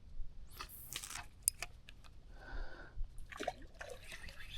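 Faint splashing and dripping water, with a few scattered small clicks and knocks.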